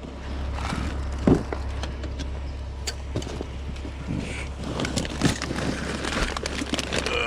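Scattered knocks, clicks and rattles of discarded items being handled and rummaged through, with a louder knock about a second in, over a steady low rumble.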